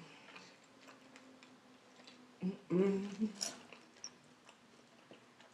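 Quiet chewing and small mouth and finger sounds while eating fried chicken wings, with faint scattered clicks. A brief voiced murmur from the eater about two and a half seconds in is the loudest sound.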